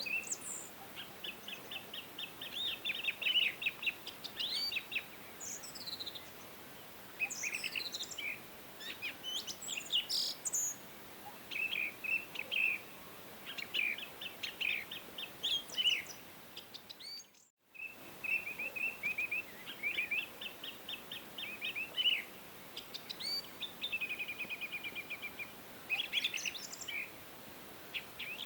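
Several songbirds chirping and singing in short phrases and rapid trills over a faint steady hiss. About two-thirds of the way in, the sound cuts out completely for a fraction of a second, then the birdsong resumes.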